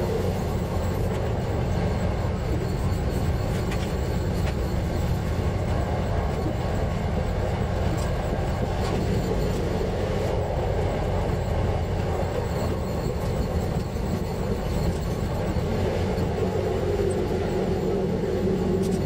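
KTR700-series diesel railcar running along the line: a steady mix of engine drone and wheel-on-rail rumble, even throughout with no distinct clicks or squeals.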